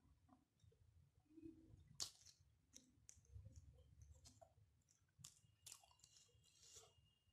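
Faint mouth sounds of a man eating rice by hand: scattered wet clicks and smacks of chewing and lips, the loudest about two seconds in.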